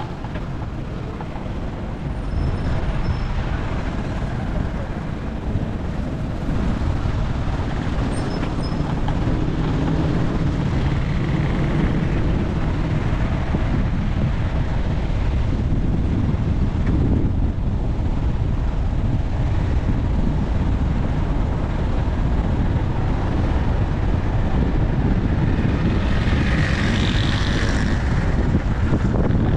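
Steady low rumble of a moving vehicle: engine and road noise. A higher rushing sound swells briefly near the end.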